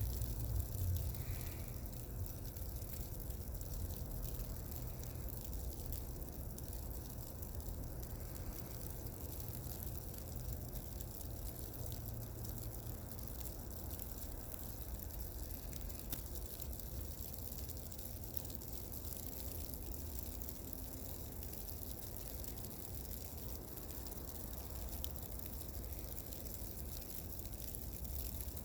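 Car tyres running on a wet, slushy, snow-covered road: a steady hiss and swish of slush over a low road rumble.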